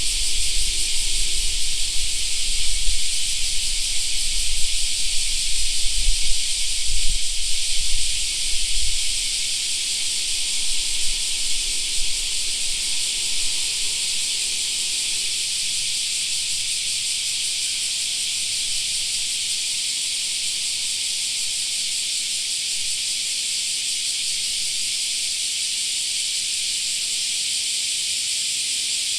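Cicadas droning in a dense, unbroken chorus, a steady high hiss. A low rumble underneath fades out about nine seconds in.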